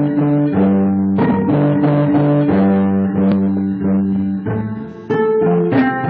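Instrumental passage of a live song: plucked string notes in a repeating pattern over held low notes, with no singing. The music thins out and fades about four and a half seconds in, then a fresh plucked note comes in about five seconds in.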